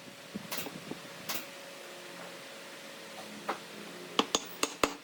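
Sharp knocks or taps: a few scattered ones, then about three-quarters of the way in a quick run of louder knocks, about four or five a second.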